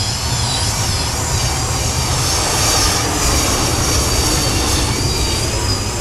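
Triple-turbine pulling tractor running: a high turbine whine that wavers in pitch over a loud, steady rumble.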